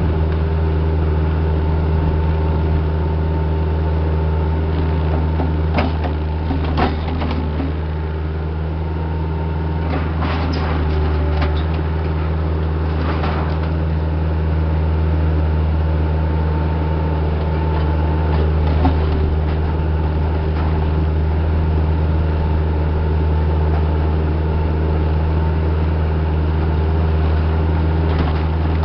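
Heavy equipment's diesel engine running steadily under work, with a handful of short knocks and clanks scattered through the first twenty seconds or so.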